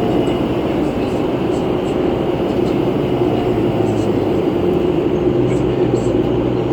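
Steady drone of a 2011 New Flyer C40LF compressed-natural-gas city bus heard from inside the cabin while it runs, with engine, fan and road noise blended together and a faint steady whine over the low rumble.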